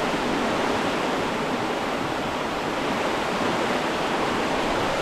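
Floodwater in a creek rushing past: a steady, even roar of fast-moving water, from a creek risen suddenly after heavy rain upstream.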